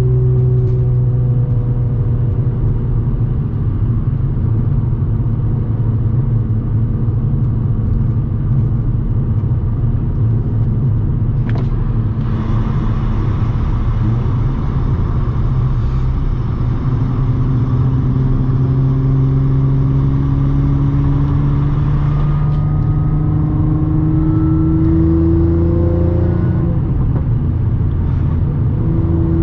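Audi S4 B8.5's supercharged 3.0-litre V6 running through an AWE exhaust with test pipes while driving, with a steady engine note under road and wind noise. Over the second half the note slowly climbs in pitch, drops briefly near the end, then climbs again.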